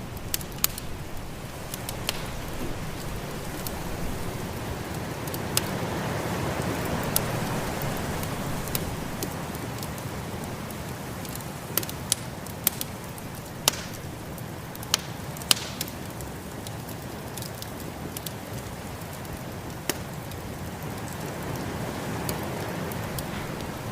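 Wood fire crackling with scattered sharp pops, over a steady rushing of snowstorm wind that swells about a third of the way in and again near the end.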